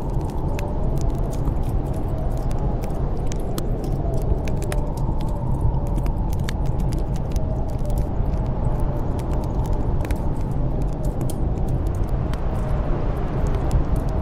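Steady deep rush of snowstorm wind with a faint whistle rising and falling, over frequent small pops and crackles of a wood fire burning in a fireplace.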